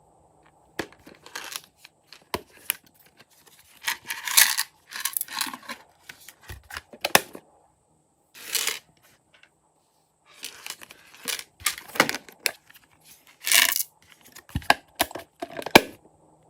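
Glossy slime being pressed, stretched and mixed by hand: irregular sticky crackles, tearing sounds and sharp pops.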